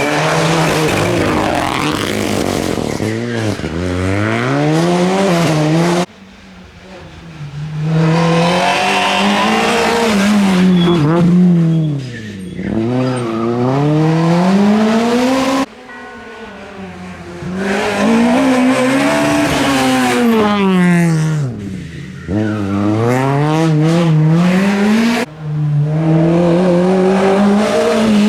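Rally cars passing one after another at full throttle, engines revving up and dropping through gear changes and braking, with tyre squeal and skidding on the loose road.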